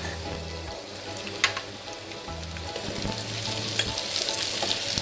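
Chicken pieces and chopped onions sizzling and crackling in hot oil in a pan, the crackle growing busier toward the end, with one sharp tap about a second and a half in.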